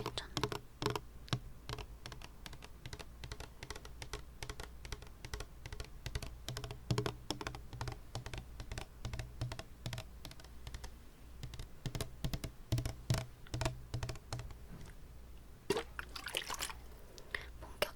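Close-miked wet mouth sounds: rapid, irregular clicks and smacks of tongue and lips in a mouth holding water. There are a few louder wet swishes near the end.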